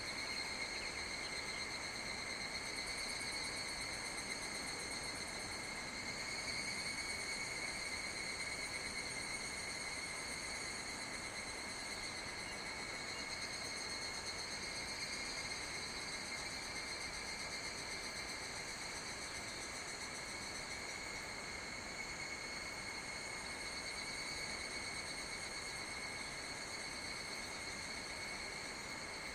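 Insects singing in a steady, high-pitched chorus that goes on without a break, over a soft even hiss.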